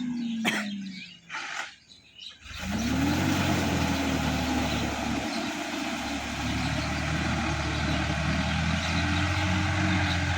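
Tractor diesel engine, which the material names as a Sonalika DI-50 RX, winding down and going quiet for about two seconds after a sharp click. It then comes back with a quick rev and settles into a steady run.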